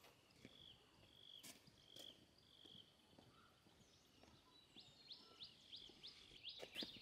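Near silence with faint birdsong: a few held whistled notes, then a run of quick repeated chirps from about five seconds in, and a couple of soft knocks.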